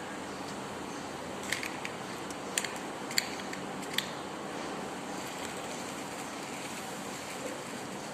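A few sharp clicks, bunched between about one and a half and four seconds in, over a steady hiss.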